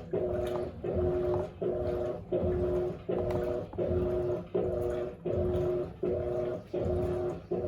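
Electrolux LAC16 top-loading washing machine agitating at a high water level, its replacement 1/4 hp WEG motor from an LT13B humming in even strokes, about one every 0.7 s, with a short break each time the agitator reverses.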